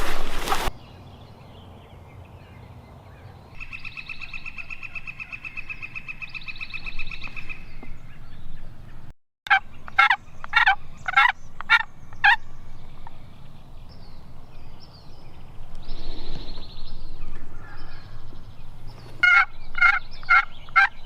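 Turkey yelps: a run of about seven sharp, falling notes, and another run near the end, after a few seconds of a steady rattling trill.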